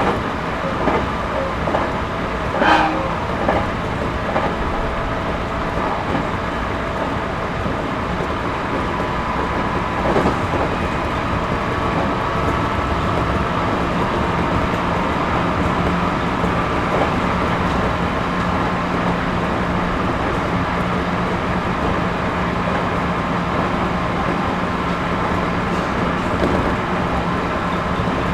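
Running noise heard inside the passenger car of a JR Series 211-5000 electric train: a steady rumble of wheels and running gear, with a sharp click about three seconds in and a smaller knock about ten seconds in. A steady low hum from the drive joins about halfway through.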